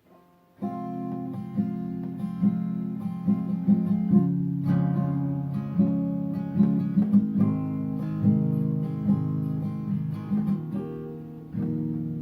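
Acoustic guitar strumming chords as a song's introduction, starting about half a second in.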